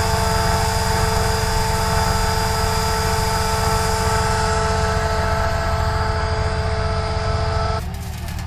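Engine running at a steady speed: a low rumble with a constant high whine over it that does not rise or fall. It cuts off suddenly near the end.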